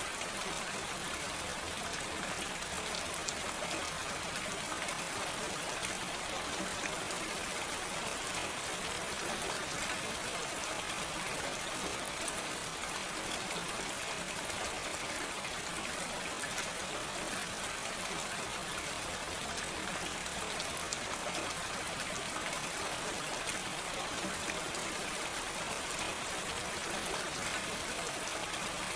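Steady gentle rain with no thunder: an even hiss of falling rain with faint scattered drop ticks, no change in strength.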